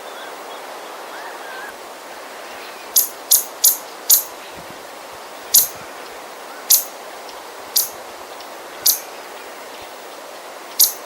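A small bird giving sharp, high-pitched scolding chips, about nine of them at uneven intervals starting about three seconds in, over a steady hiss of breeze.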